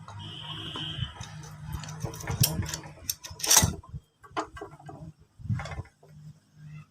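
Metal parts and hand tools clicking and knocking during motorcycle engine assembly: a string of sharp clicks and taps, loudest about three and a half seconds in, over a low steady hum, with a brief high squeak near the start.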